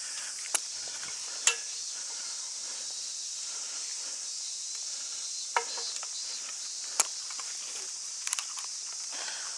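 Steady high-pitched insect chorus, with a few sharp clicks and knocks scattered through it.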